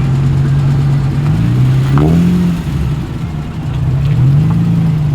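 A car engine idling steadily, blipped up in revs twice: about two seconds in and again near the end.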